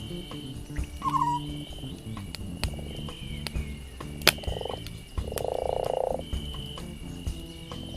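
Campfire crackling and popping, with a night animal's low rattling call lasting about a second, starting about five seconds in, and a short chirp about a second in.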